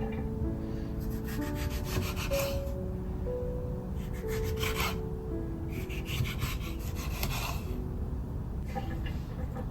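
Repeated rasping, scraping strokes in four bursts of about a second each, each made of many fast little ticks, over soft background music.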